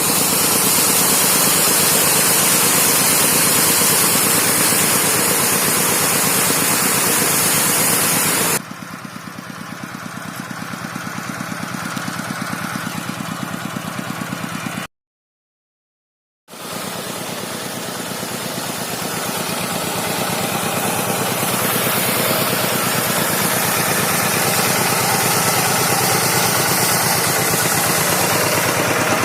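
Tractor engine running steadily with an even, rapid chug. It drops quieter suddenly about a third of the way in, cuts out to silence for about a second and a half just past the middle, then comes back and slowly grows louder.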